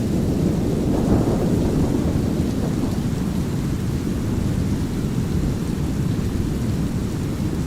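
A steady bed of deep brown noise with light rain. A rumble of thunder swells about a second in and dies away over the next two seconds.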